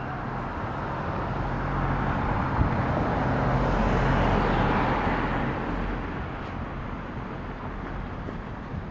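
A car passing by: road noise swells to a peak about four seconds in and fades away, over a low steady hum.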